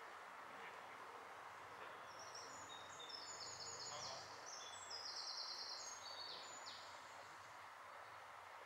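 A songbird singing one long phrase of fast, high trills and notes, starting about two seconds in and lasting some four seconds, over a faint steady outdoor hiss.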